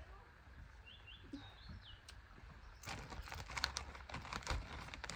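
A few faint bird chirps about a second in, then crisps being crunched from about three seconds in, a dense run of crackling clicks.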